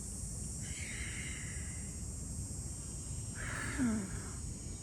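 A man breathing through a slow stretch: a soft breath about a second in, then a louder exhale near four seconds with a short falling sigh in the voice. Under it runs a steady high hiss of insects and a low outdoor rumble.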